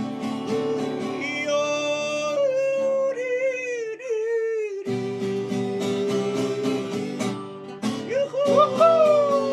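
A man yodeling wordless phrases with quick leaps in pitch and long held notes, over a strummed acoustic guitar.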